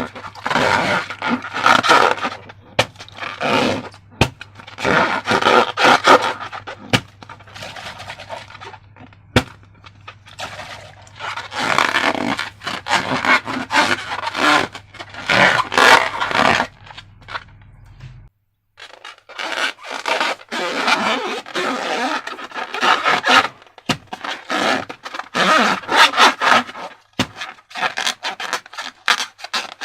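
Slime being worked by hand: sticky, wet scraping and crackling in repeated bursts of a second or two, broken by a brief silence a little past halfway.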